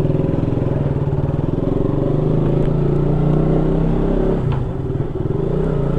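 KTM Duke 200's single-cylinder engine running steadily, its revs easing off briefly about five seconds in and then picking up again.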